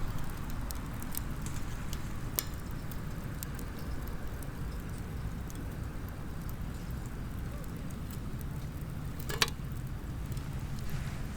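Small wood fire crackling in a compact fire pit, with scattered light pops and one sharp loud crack about nine seconds in, over a steady low rumble.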